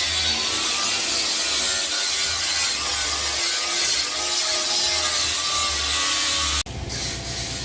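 Grinder sanding dried gypsum plaster on a ceiling between wooden rafters: a loud, steady rasping with a wavering motor whine. It cuts off abruptly near the end, leaving a quieter steady hiss.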